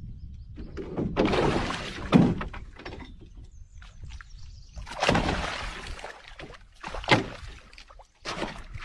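Water splashing and sloshing around a kayak in irregular bursts, with a couple of sharp knocks on the hull.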